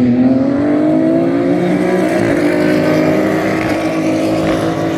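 GT race car engine at full throttle, its pitch rising steadily over the first few seconds and then holding, with another engine running steadily beneath it.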